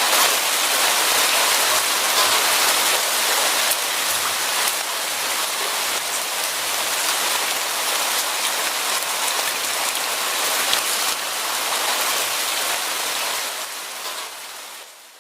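Steady rain falling, an even hiss with fine pattering drops, fading out over the last second or so.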